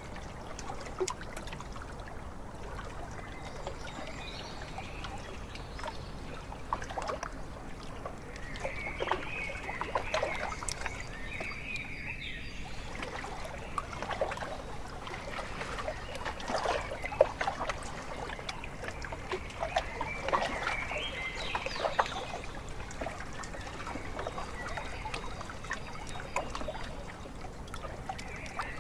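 Small waves lapping and splashing irregularly at a lake shore, busier through the middle stretch, with a few short bird calls.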